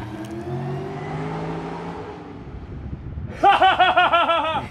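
A car engine running past with a steady, slowly shifting note. About three and a half seconds in, a loud rapid pulsing sound of about seven pulses a second breaks in and stops abruptly just before the end.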